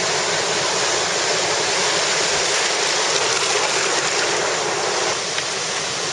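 Steady rush of water, with surf and river water churning at a river mouth. It eases slightly about five seconds in.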